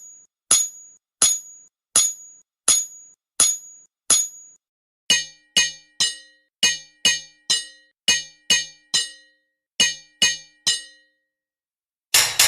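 Hammer striking ringing metal, as on an anvil. First come about six evenly spaced high, ringing strikes, then a quicker run of lower-ringing strikes in uneven groups, and a louder crash near the end.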